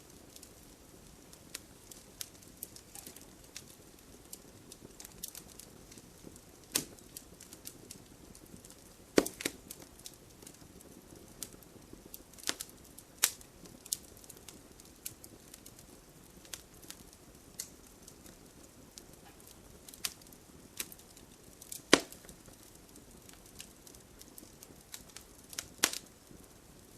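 Wood fire burning in a fireplace: a soft steady hiss under irregular sharp crackles and pops, the loudest pops about 9 seconds and 22 seconds in.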